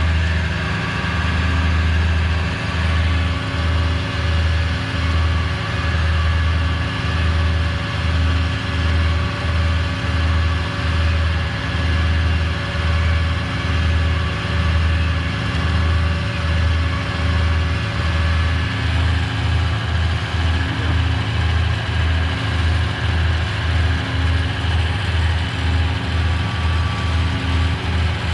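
Heavy truck engine running steadily with a low, even throb that pulses about once a second and grows quicker toward the end, as the tow truck powers its winch pulling a stuck moving truck out of mud.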